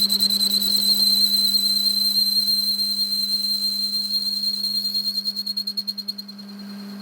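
A high-pitched whistling tone, pulsing rapidly, over a steady low hum; the whistle fades out near the end.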